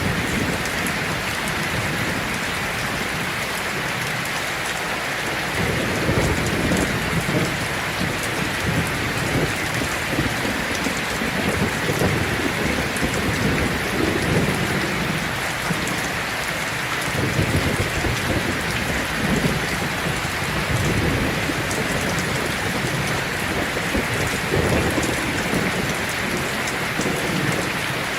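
Heavy rain falling steadily on a tin roof, with low rumbles of thunder swelling and fading several times through the middle.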